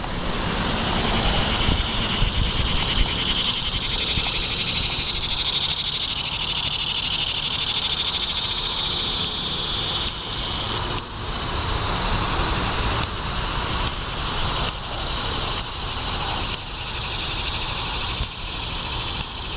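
Chorus of many annual cicadas buzzing steadily as a dense, high-pitched drone, with a low rumble underneath.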